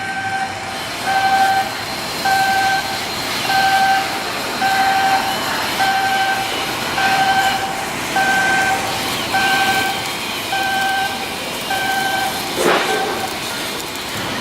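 An electronic warning beeper sounding a single steady tone about once a second, twelve beeps in all, over steady machinery noise in the shipyard. Near the end a single knock stands out.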